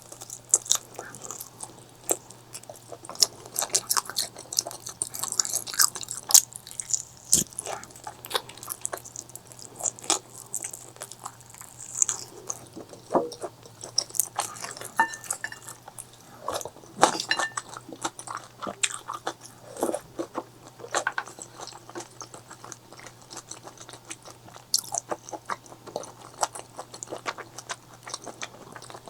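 Close-miked mouth eating sounds: chewing and biting into food, with many irregular sharp crunchy clicks.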